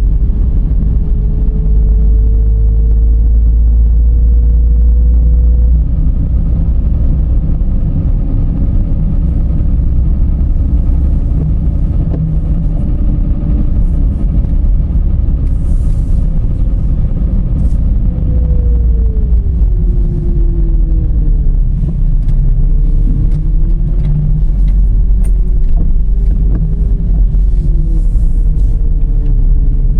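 Dodge Charger 3.5 L V6 driving, with a loud steady low rumble of road and engine noise. A hum slowly rises in pitch, then dips and wavers from a little past halfway as the speed changes. Faint scattered ticks run over it.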